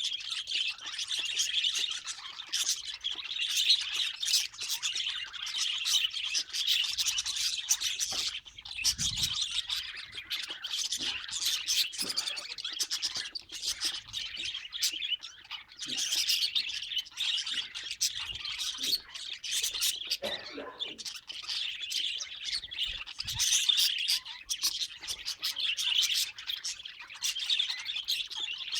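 Pet budgerigars chirping and chattering, a dense, continuous stream of short high chirps.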